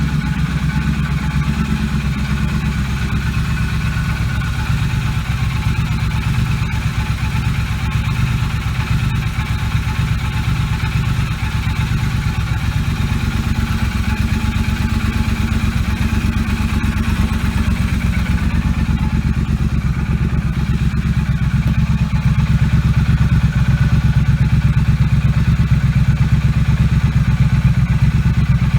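Triumph Street Cup's 900 cc parallel-twin engine running through TEC 2-into-2 slip-on mufflers, a steady, deep exhaust note that gets louder about three-quarters of the way through.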